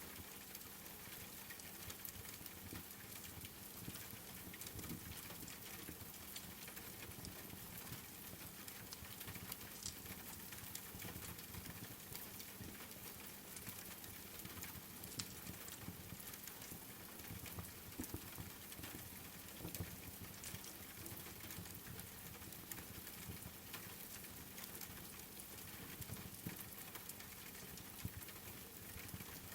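Steady rain patter mixed with a crackling fireplace: a soft even hiss with frequent small sharp clicks and pops scattered throughout.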